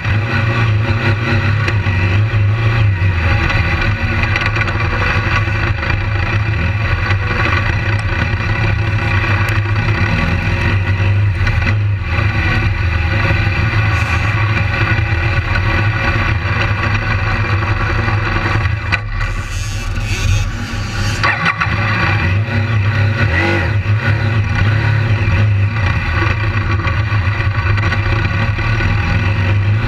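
BMW GS adventure motorcycle's engine running steadily under throttle on a dirt track. About two-thirds of the way through the engine note briefly drops and a short hiss comes in.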